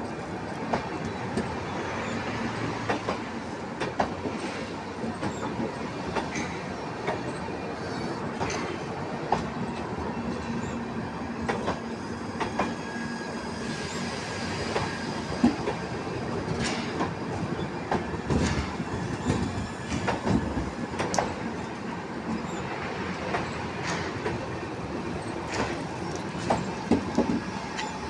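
Train running along the track, its wheels clicking sharply and repeatedly over rail joints above a steady rumble, with a faint wheel squeal partway through.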